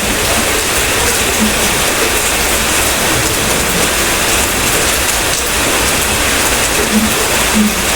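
Steady rain falling: an even, continuous hiss with a few brief soft low drips or plops.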